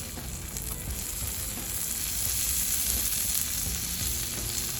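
Food sizzling steadily in a pan over a wood fire, an even hiss that grows a little louder about two seconds in.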